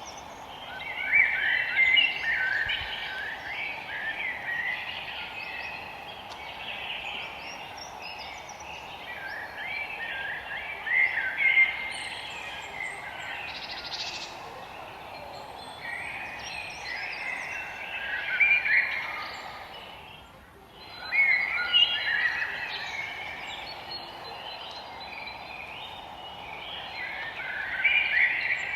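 Songbirds singing in a forest, with warbled song phrases of a couple of seconds each coming every few seconds over a steady background hiss. Everything dips briefly about two-thirds of the way through.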